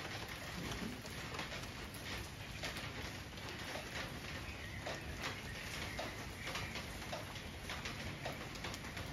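Steady rain falling on garden foliage, with scattered drip taps and a bird calling now and then.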